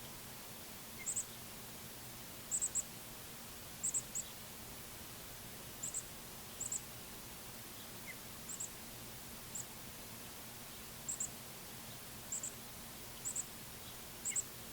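A small songbird repeating short, very high-pitched chirps, mostly in quick pairs or threes, at uneven intervals about once a second, over a faint steady hum.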